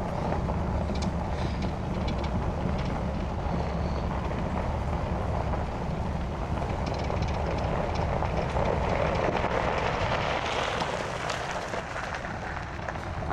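Pickup truck driving: a steady low engine drone with road and tyre noise, the noise swelling for a couple of seconds about nine seconds in.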